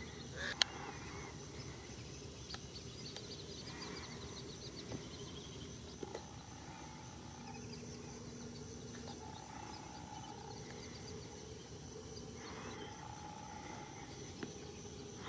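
Faint outdoor nature ambience: distant bird calls and a brief rapid high trill over a steady hiss.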